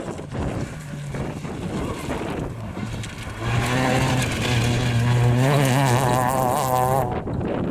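Racing engine on a dirt rally stage at high revs. It grows loud about three and a half seconds in, holds a steady pitch, then wavers before dropping away sharply near the end. Wind buffets the microphone before it arrives.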